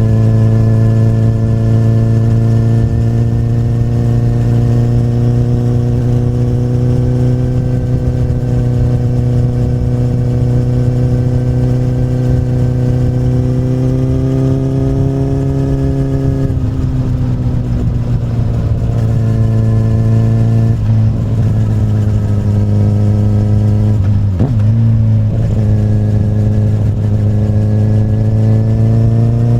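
A Honda CBR1000RR's inline-four engine running through an Akrapovic carbon slip-on exhaust, heard from the moving bike. The note rises slowly for the first half. After that it falls and wavers several times, and it climbs again near the end.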